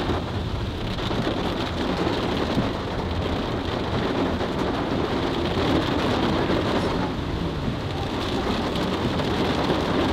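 Heavy rain beating on a car's roof and windshield, heard from inside the moving car: a steady dense hiss with a low rumble underneath.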